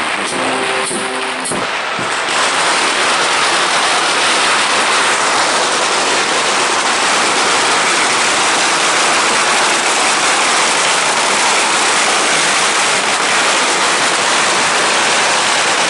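Band music that fades out about two seconds in, followed by a steady, loud rushing noise with no tone in it.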